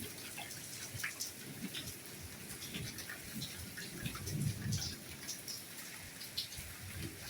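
Soft, steady rainfall with individual drops dripping and tapping at irregular moments, now and then a heavier, duller drop.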